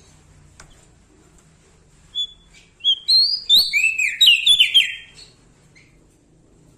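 Prenjak daun Lombok singing: a single short note, then a quick loud phrase of whistled notes that slide in pitch, lasting about two seconds.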